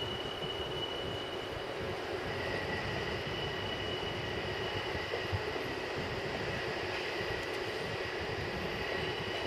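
Steady rumble of an Odakyu Odawara Line electric train approaching on the line through a level crossing, with thin steady high-pitched tones over it; a second tone comes in about two seconds in.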